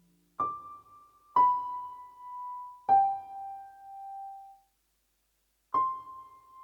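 Four single piano notes played slowly, each struck and left to ring out, with pauses between them. The first three step downward in pitch; the last, after a longer pause, comes back up.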